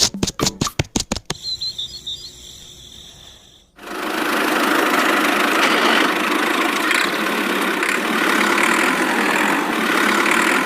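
A small motor starts suddenly about four seconds in and runs steadily, an even buzzing noise with little low end. In the first second there is a quick run of sharp knocks or beats.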